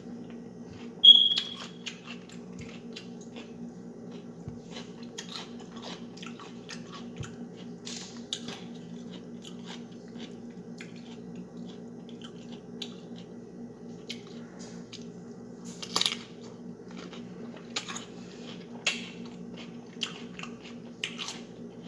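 Close-miked eating of snow crab legs: wet chewing, smacking and cracking, with louder crackles now and then. A short, loud high squeak comes about a second in, and a steady low hum runs underneath.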